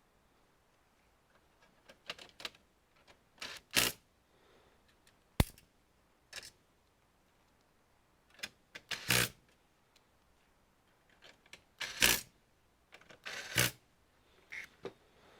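Irregular clicks, taps and short scrapes of computer parts and tools being handled during disassembly of an all-in-one PC, with one sharp click about five seconds in.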